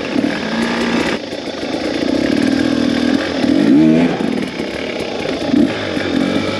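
Two-stroke dirt bike engine running, with the revs rising briefly about three and a half seconds in.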